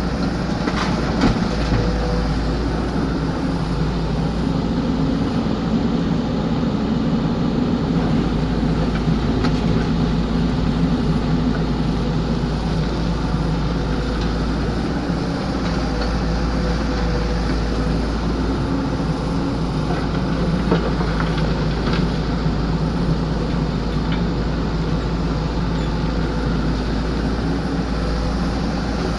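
XCMG excavator's diesel engine running steadily, with a few short metallic clanks.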